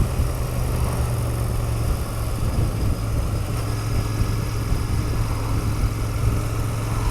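Royal Enfield Continental GT650's 648 cc parallel-twin engine running at a steady, unchanging speed, heard from the bike.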